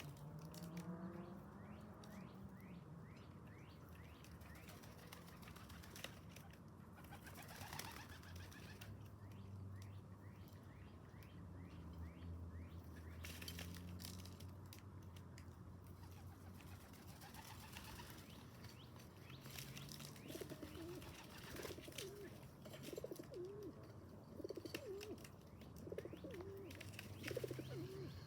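Pigeons cooing, with a few short bursts of wing flapping; the cooing comes in a run of wavering low calls in the last third.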